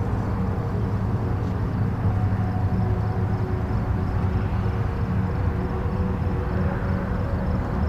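Steady low wind ambience, an even rumbling noise with a few faint held tones above it.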